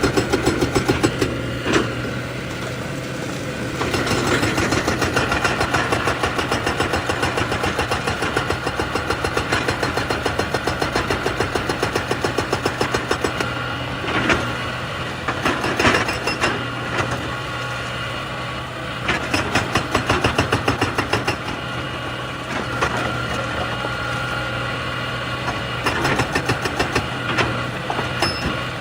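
Excavator's diesel engine running, its sound swelling and easing in stretches as it works, with a few sharp knocks.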